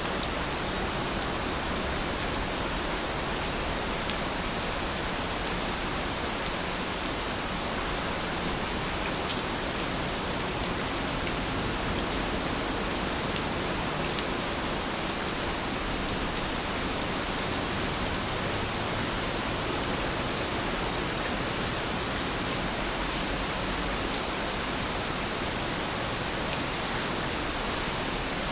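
Steady, even rain falling, a continuous hiss with occasional faint drop ticks. A few faint high chirps come through the rain around the middle.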